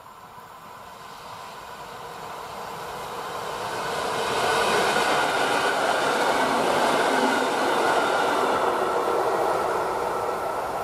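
An EN57-type electric multiple unit passing at speed: its running noise grows over the first few seconds, is loudest as the cars go by in the middle, then eases as it moves away.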